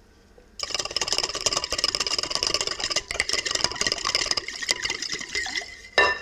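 A small electric kitchen appliance motor whirring with a rattle for about five seconds, then stopping, followed by a sharp metallic clink.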